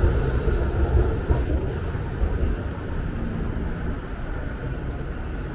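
Wind buffeting the microphone over passing city traffic, loudest in the first couple of seconds and then easing off.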